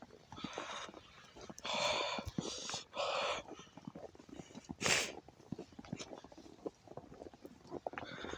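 Footsteps crunching through fresh snow, with several loud breathy bursts close to the phone's microphone, the loudest about five seconds in.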